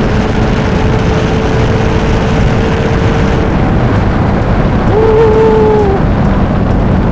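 McLaren 720S twin-turbo V8 with a Novitec exhaust running hard at speed, a loud, dense rumble mixed with road and wind noise. A steady engine note holds for the first few seconds, then fades into the rumble.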